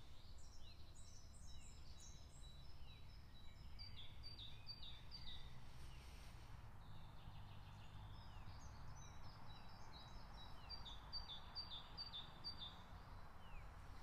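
Songbirds singing: phrases of quick, short, high chirps and down-slurred notes that come and go, over a faint steady low rumble.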